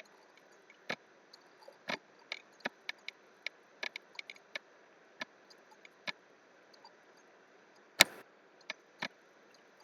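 Irregular clicks of a computer mouse and keyboard, about twenty short clicks spaced unevenly, with one sharper click about eight seconds in.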